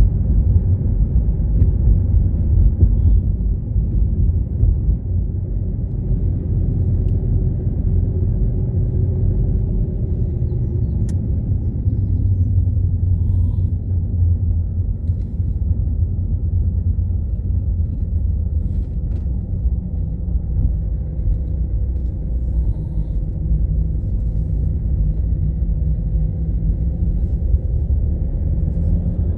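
Car driving: a steady low rumble of engine and road noise, with no sharp changes.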